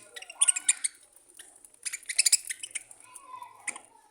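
Budgerigars chirping and chattering in quick bursts, loudest about half a second and two seconds in, with a lower warbling call near the end.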